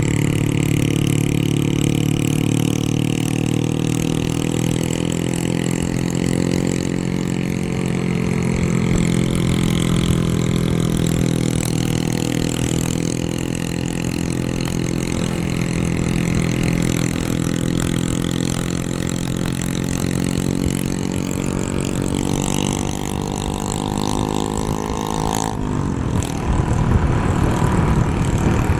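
A vehicle's engine running steadily at road speed, with wind and road noise. The engine note changes abruptly near the end.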